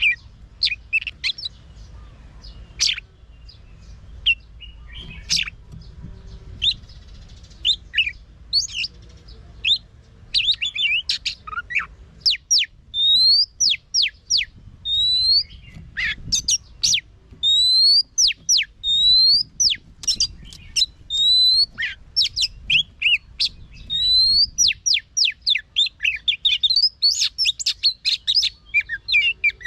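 Oriental magpie-robin singing: a varied run of sharp chirps and clear whistles, with a rising whistled phrase repeated every second or two through the middle, then fast chattering notes near the end.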